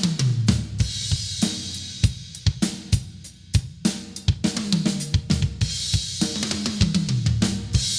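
Drum kit being played: fast beats of snare, bass drum, hi-hat and cymbals, broken by fills whose notes step down in pitch.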